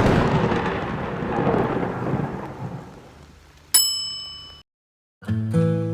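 A crack of thunder that rumbles and fades away over about three seconds. Then a single bright metallic ding rings out briefly, followed by a moment of silence and acoustic guitar music starting near the end.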